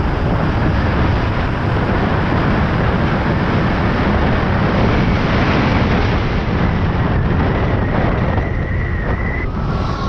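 Heavy wind rushing over the microphone on a 72-volt Razor MX650 electric dirt bike ridden at road speed. A faint high whine rises slowly in the second half, and the wind eases about a second and a half before the end.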